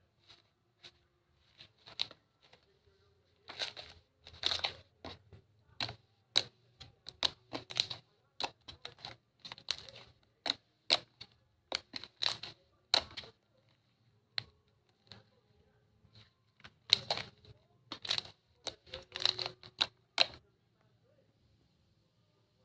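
Crunchy slime being squeezed and pressed by hand: irregular sharp crackles and pops, coming in clusters with short pauses between them.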